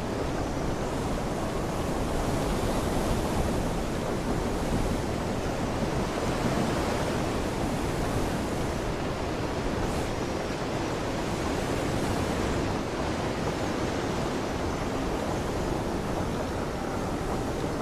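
Steady rushing hiss of heavy rain and water spray falling on a wet wooden ship's deck.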